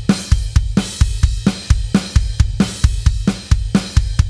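Drum kit playing a twist groove variation with a steady beat of bass drum and snare strokes under a cymbal.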